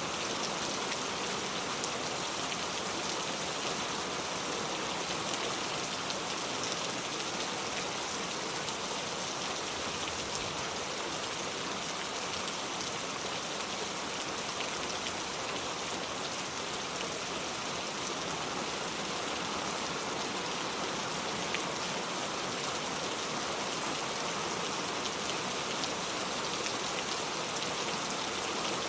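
Steady rainfall, an even hiss of falling rain with faint scattered drop ticks.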